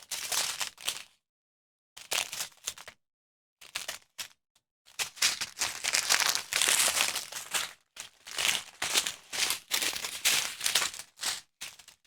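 Plastic packaging from a diamond painting kit crinkling as it is handled, in several short bursts and a longer stretch in the middle.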